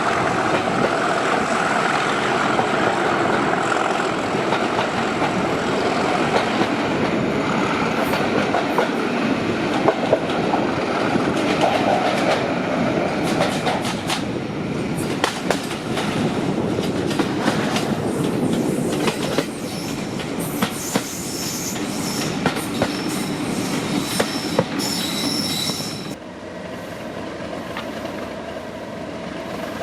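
Train hauled by a Class 37 diesel locomotive running along the rails, with a steady rumble of running noise and sharp clicks of wheels over rail joints. In the second half the wheels squeal in several high steady tones, and about 26 s in the sound suddenly drops to a quieter background.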